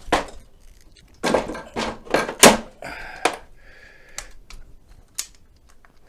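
A series of irregular knocks and clunks from parts of a mobility scooter being handled and fitted. The loudest comes about two and a half seconds in.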